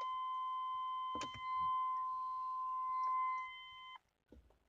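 A steady electronic warning tone from the GMC S-series truck's dashboard, with a faint click or two partway through. About four seconds in it cuts off abruptly as the truck's accessory power dies when the power-window switch is pressed, a symptom of the truck's electrical fault.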